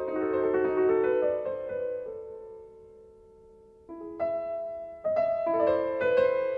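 Piano music: sustained chords die away to a quiet lull in the middle, then new notes are struck about four seconds in and the playing picks up again.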